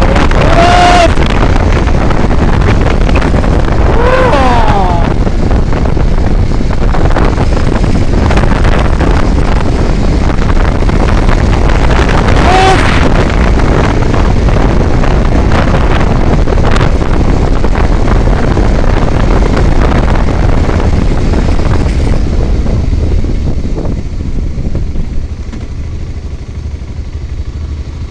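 Road vehicle travelling at speed, its engine and road noise under heavy wind rush on the microphone, with a few brief voice-like sounds over it. About 23 seconds in, the rush grows quieter and duller.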